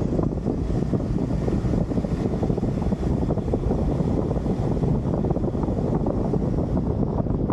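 Steady rumbling road noise and wind buffeting from a moving vehicle, heavy in the low end, with no distinct events.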